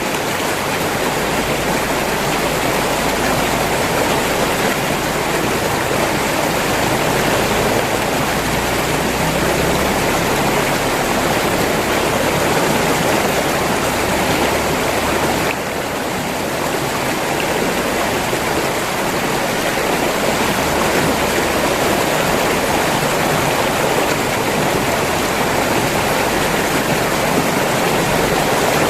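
River water rushing steadily, an even full hiss with no other sounds, dipping slightly in level about halfway through.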